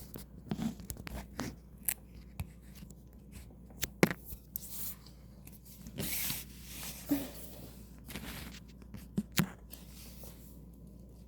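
Scattered light clicks, taps and scratchy rustles of something being handled or rubbed close by, with a longer rustle about six seconds in.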